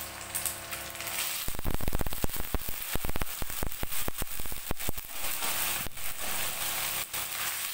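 Parboiled bitter melon and potato slices going into hot mustard oil in a stainless steel wok: the oil sizzles steadily, then about a second and a half in breaks into rapid crackling and spattering that carries on, louder.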